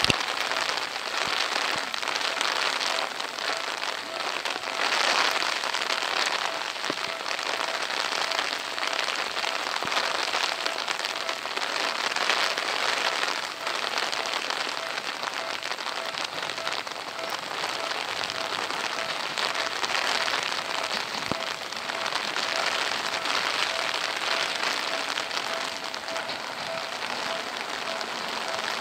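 Steady rain falling and pattering on surfaces, with a faint bell dinging about twice a second behind it, typical of a railway level-crossing warning bell sounding while a train approaches.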